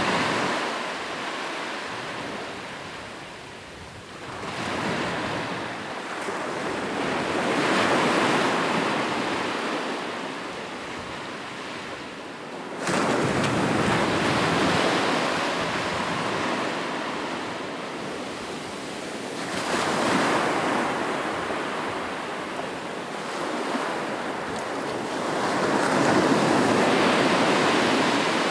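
Sea waves breaking and washing ashore in slow surges, about four times, each building and then fading away; one surge sets in abruptly just before halfway.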